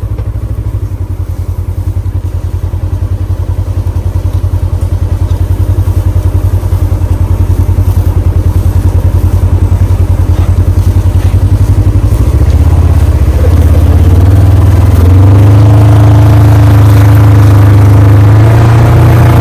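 A vehicle engine running close by with a steady pulsing note. About two-thirds of the way through it speeds up, rising in pitch and getting louder.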